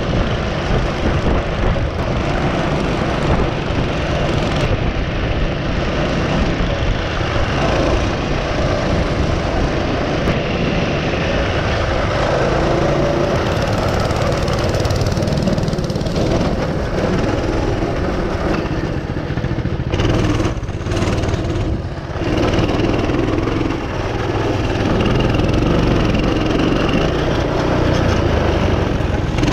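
Small engine on a racing mini bike or go-kart, running hard with its pitch rising and falling as the throttle changes. It dips briefly about twenty seconds in.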